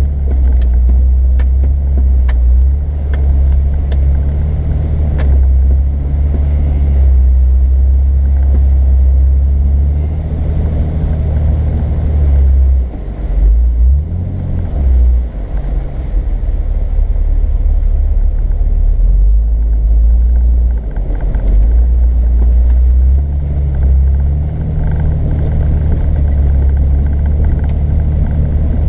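Off-road vehicle driving, its engine note rising and falling as it is worked over the trail, under a deep continuous rumble.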